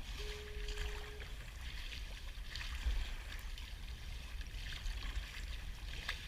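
Kayak paddle strokes splashing in the water, a swish every second or two, over a steady low wind rumble on the microphone.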